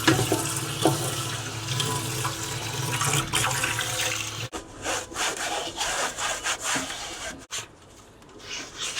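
Tap water running with a steady low hum for about four and a half seconds, rinsing a fan's insect screen, then shut off sharply. It is followed by a few seconds of irregular rubbing strokes.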